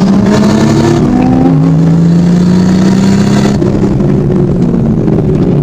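Drift car's engine heard from inside the cabin, running hard with its pitch climbing over the first second and a half, then holding steady. A hiss above the engine cuts off abruptly about three and a half seconds in.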